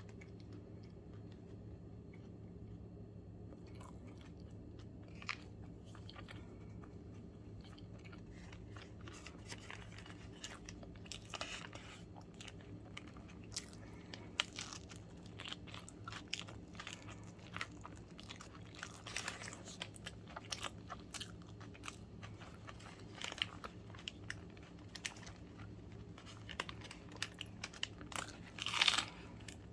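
Close-miked eating of a sandwich: crunchy bites and chewing, with many small crackling mouth sounds over a steady low hum, and a louder crackling burst near the end.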